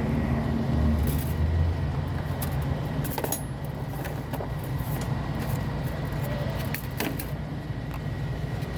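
Low, steady rumble of a motor vehicle engine, with scattered sharp metallic clinks and knocks.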